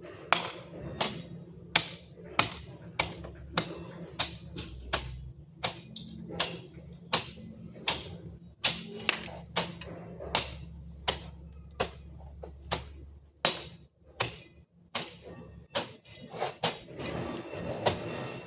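A steady run of sharp strikes, about two a second, from a hand tool hitting over and over, as in chopping during yard work.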